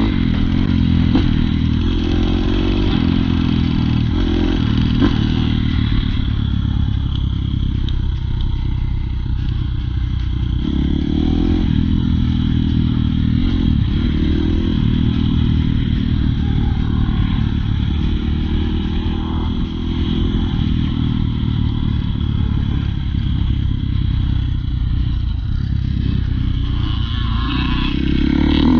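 Dirt bike engine being ridden, revving up and down again and again as the throttle opens and closes.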